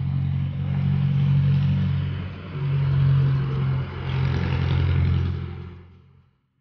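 A motor vehicle's engine running close by, loud over everything else, swelling and easing off twice before fading away near the end.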